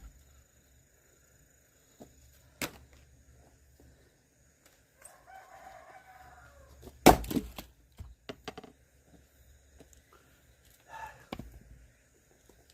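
Axe strikes on firewood: a knock about two and a half seconds in, a loud sharp strike about seven seconds in, then a couple of lighter knocks. A rooster crows in the background about five seconds in.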